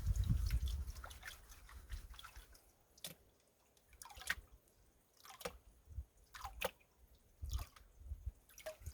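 Water sloshing in a gold pan as it is worked, then single drops and small splashes of water falling back into the water, about one a second, each with a short falling plink.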